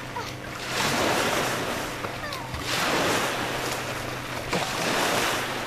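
Lake water washing in swells that rise and fall about every two seconds.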